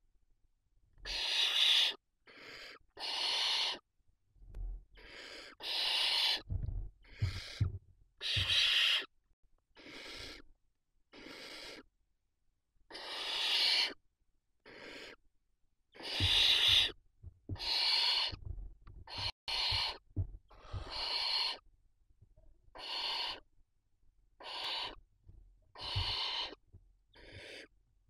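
Barn owl chicks giving their rasping, hissing begging calls: about twenty separate hisses of half a second to a second each, with low thumps now and then.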